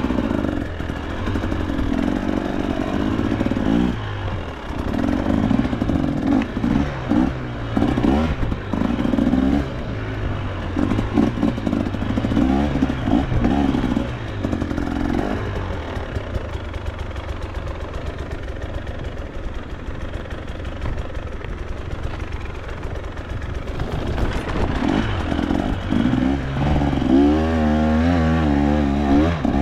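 KTM two-stroke enduro dirt bike engine on and off the throttle in short bursts, its revs rising and falling, then climbing steadily near the end.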